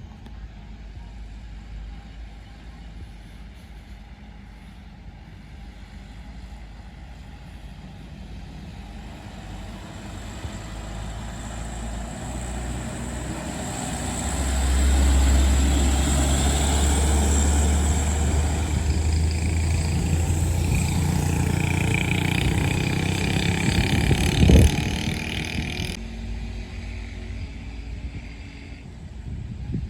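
Heavy truck's diesel engine growing louder as it approaches, then running loud and steady for about ten seconds as it passes close. There is one brief sharp sound near the end, after which the engine fades away.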